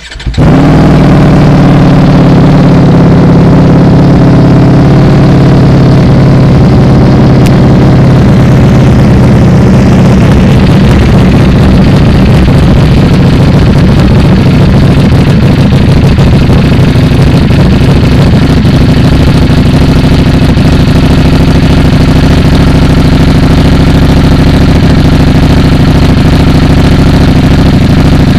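Ducati Panigale V4 engine breathing through an Arrow titanium slip-on exhaust, catching right at the start and then settling into a loud, steady cold-start idle.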